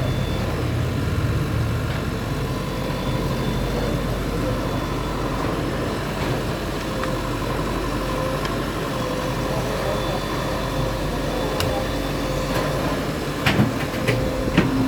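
Demolition bulldozer's diesel engine running steadily, with a few sharp knocks near the end.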